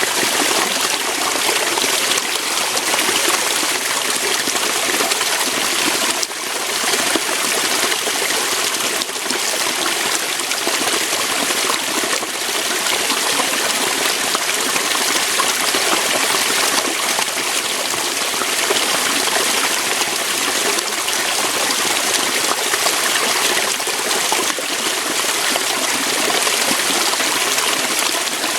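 Waterfall: water pouring steadily over rocks, a continuous even rush.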